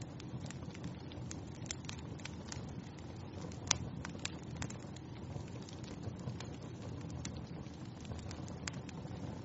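Wood fire crackling in a fireplace: a steady low rumble of flames with many small pops, and one sharper pop about four seconds in.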